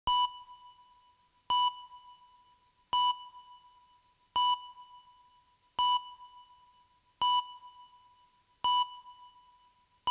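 A short electronic beep, pitched near 1 kHz, repeats at an even pace about once every second and a half, seven times. Each beep has a few quick echoes trailing off after it.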